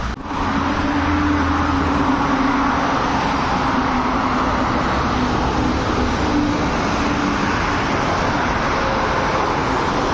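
Steady highway road and traffic noise from vehicles moving at speed, with a faint steady drone running under it. There is a brief drop right at the start.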